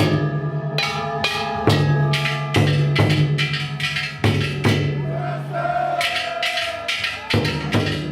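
Ishidori festival cart's large hand-struck bronze gongs (kane) clanging in a rapid, irregular rhythm over a taiko drum, each stroke ringing on.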